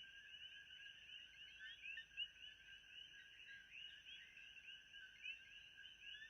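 Faint nature ambience: a dense chorus of overlapping chirping animal calls, continuous and unbroken, over a steady high-pitched buzz.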